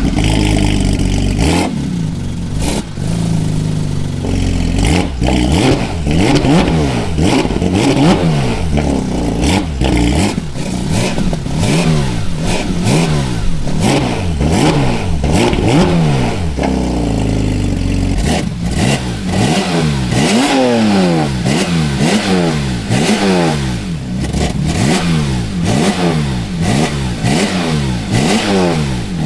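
Porsche 992 GT3 RS's naturally aspirated 4.0-litre flat-six revving through a full titanium valved race exhaust, blipped up and dropping back again and again, the revs coming faster and closer together in the second half.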